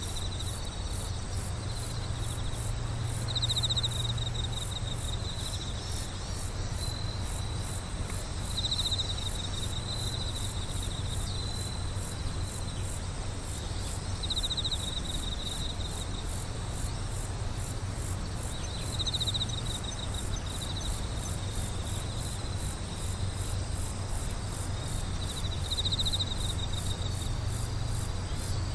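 Night-time insects singing: one keeps up a high, fast-pulsing trill throughout, while another gives lower chirping trills about a second long every few seconds, over a low steady hum.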